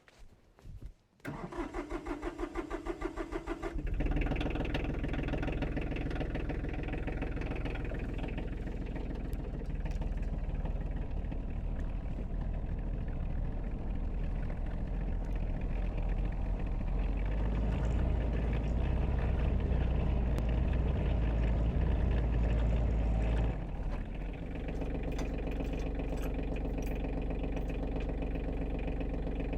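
Tractor engine starting: the starter cranks with about four pulses a second for a few seconds, the engine catches, and then it runs. It runs louder for several seconds, then drops back to a steady idle near the end.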